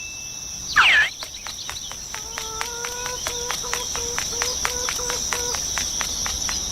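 Crickets chirping, most likely a sound effect: a steady high trill with an even pulsing, and a short falling whistle about a second in.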